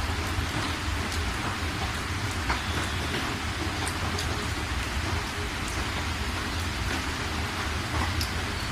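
Steady rain falling, with scattered sharper drop taps over an even hiss and a steady low rumble underneath.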